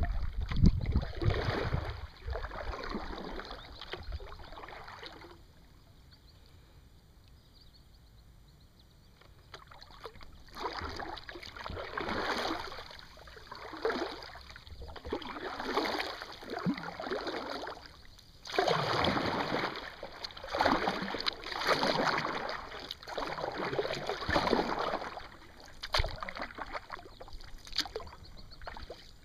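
Kayak paddle strokes, the blades dipping and pulling through the water in an even rhythm of about one stroke every one and a half to two seconds, after a pause of a few seconds near the start.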